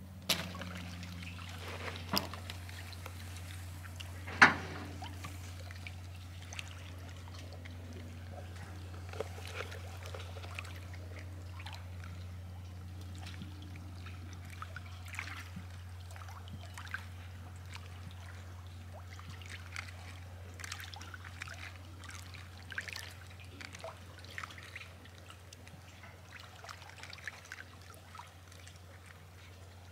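Small creek trickling, with scattered small clicks and a steady low hum, and one sharp knock about four and a half seconds in.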